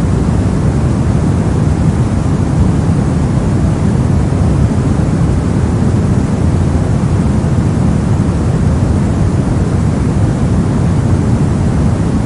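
Steady, unchanging 'soft' noise of the kind played for sleep and focus. It is deep and rumbling, with most of its weight in the low end and only a faint hiss on top.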